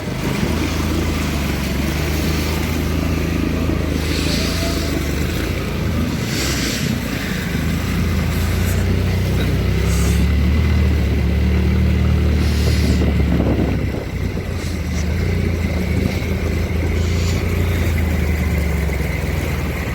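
An engine running steadily, a low, even drone, with short hissing noises now and then over it.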